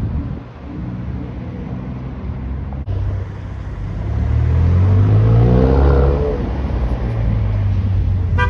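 Modified car's engine and exhaust rumbling at low revs, then revving up midway with the pitch climbing to the loudest point before easing back.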